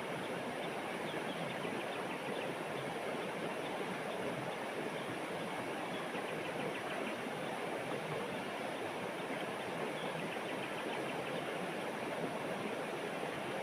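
Steady rush of flowing water, like a stream running over stones, with a fine crackle of splashing throughout.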